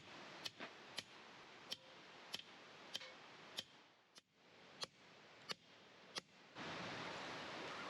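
Campfire crackling faintly, sharp wood pops at irregular intervals over a low hiss. About two-thirds of the way through the pops stop and a steady rushing hiss comes in.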